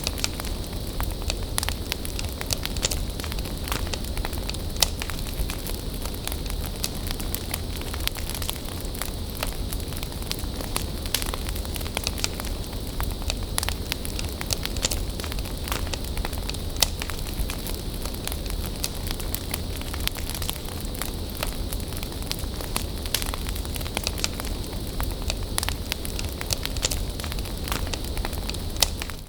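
Wood bonfire burning: a steady low rumble and hiss with frequent sharp, irregular crackles and pops.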